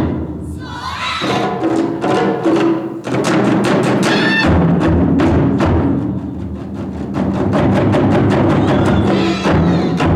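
Japanese taiko drums played live by an ensemble, a dense run of rapid strikes with a pitched melody sounding above them; the drumming eases in the first second, then picks back up.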